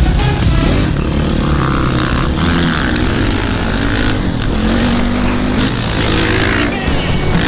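Motocross dirt bike engines revving, their pitch rising and falling again and again as the throttle is worked.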